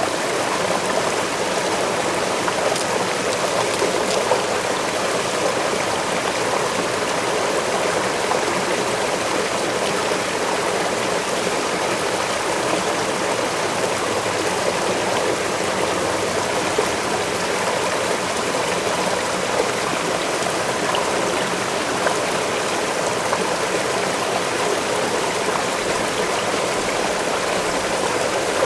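Waterfall water rushing and splashing steadily, an even, unbroken noise with a few faint ticks.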